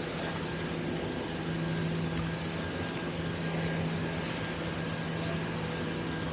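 Steady urban background noise with a constant mechanical hum, like nearby machinery or ventilation equipment running without change.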